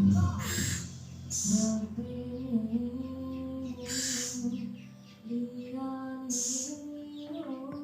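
Background music with a slowly gliding held melody, over which a scops owl chick gives four short hissing begging calls.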